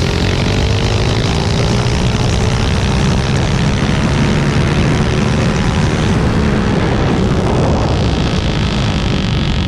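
A vehicle running at a steady speed, making a loud, even drone with a faint engine tone that slowly rises and falls.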